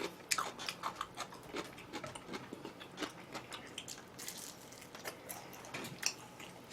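Close-miked chewing and biting of honey-glazed fried chicken: a run of short, crisp crunches and wet chewing clicks with brief gaps.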